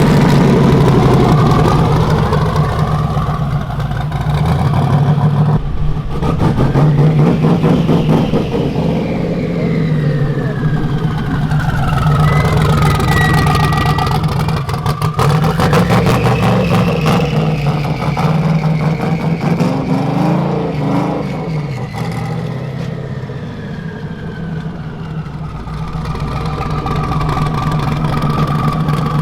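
A car engine running steadily, with a whine that rises and falls in pitch every few seconds.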